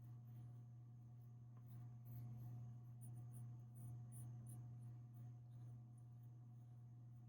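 Faint scratching of a colored pencil drawing on paper, in short strokes that come more often from about three seconds in, over a steady low electrical hum.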